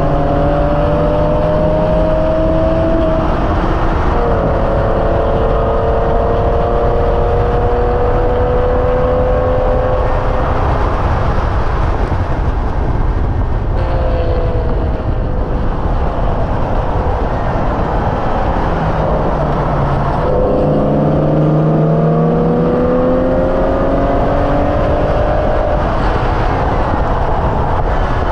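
Hyundai Elantra N's turbocharged 2.0-litre four-cylinder engine pulling hard on track, its pitch climbing through the gears and dropping back at each upshift, with a lift in the middle before it climbs again, over heavy wind and road noise.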